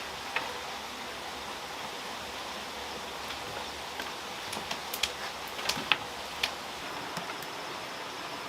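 Steady outdoor background hiss, with a handful of short sharp clicks and taps about halfway through.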